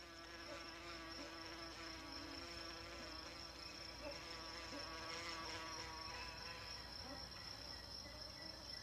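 Ichneumonid wasp's wings buzzing in a soft, steady hum, over a steady high-pitched insect trill.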